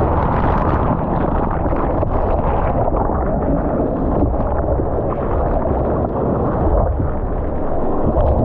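Loud, continuous rush of churning surf water, with wind buffeting the microphone.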